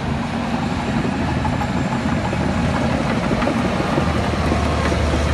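Diesel engine of heavy earthmoving machinery running steadily, a low drone that grows a little stronger about four seconds in.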